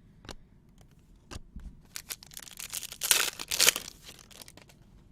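A few light clicks of card handling, then about two seconds of crinkling and tearing as a sports-card pack wrapper is ripped open, loudest past the middle.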